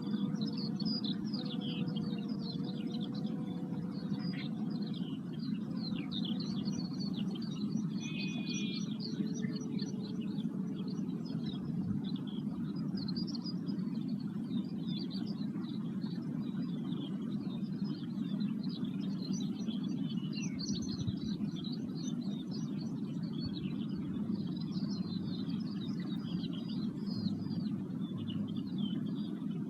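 Many wild birds singing and chirping on open moorland over a steady low rumble. A faint ringing tone fades away over the first several seconds.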